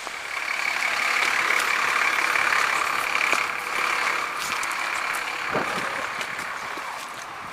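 A motor vehicle going by on a snowy street, its steady hissing drone with a faint whine swelling over the first second and fading away over the last few seconds.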